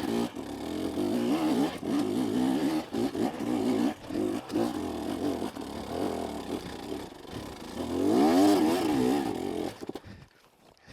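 KTM 250SX two-stroke dirt bike engine revving up and down repeatedly on a rocky, technical trail, with one long rising-and-falling rev near the end. The sound then drops away to almost nothing.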